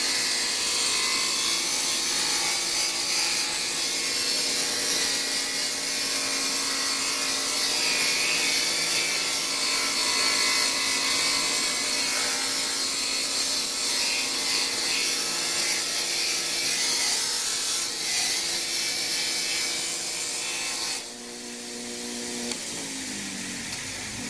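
A handheld power tool abrading a steel surface: the motor runs steadily under a loud scraping hiss. About 21 seconds in the scraping stops, and near the end the motor's pitch falls as it winds down.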